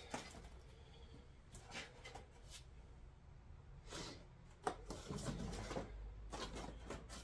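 Faint scattered clicks and brief rustles of small objects being handled, with a low rumble for a second or so in the second half.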